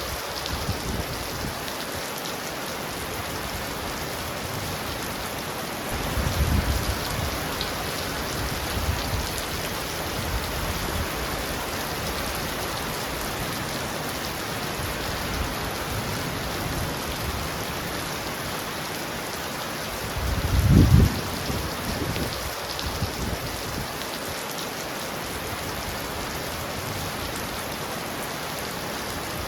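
Heavy rain pounding on a roof, a steady hiss, with two short low rumbles of thunder: one about six seconds in and a louder one about twenty seconds in.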